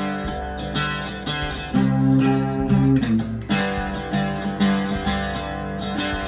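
Octave mandolin, converted from a D'Angelico 12-string guitar, being played: picked notes and chords ringing over sustained low notes in a steady rhythm.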